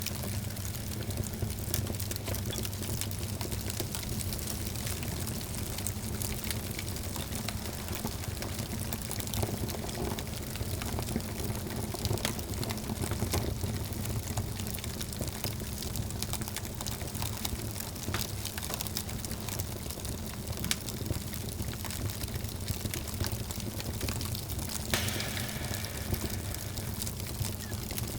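Wood fire burning in a fireplace, crackling with frequent sharp pops over a steady low background noise of the flames.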